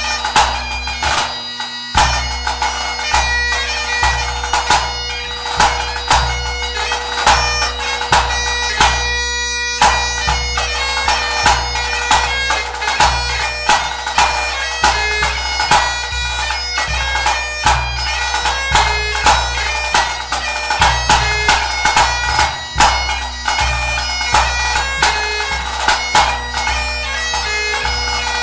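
Great Highland bagpipe playing a competition tune over its steady drones, with a bass drum beating time underneath.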